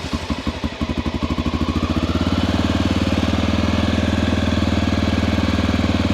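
1988 Honda NX650's air-cooled single-cylinder engine catching on a cold start with the choke pulled: uneven firing for about two seconds, then settling into a steady idle on choke. A clean startup.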